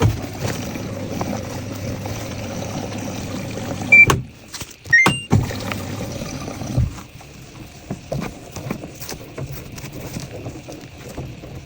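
Washing machine running with a steady low hum and water noise, with short electronic beeps from its control panel about four and five seconds in, and a few small clicks and knocks.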